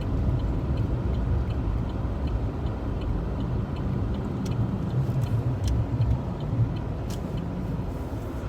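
Car cabin noise while driving: a steady low rumble of engine and road. Through the first half there is a faint regular ticking, about three ticks a second.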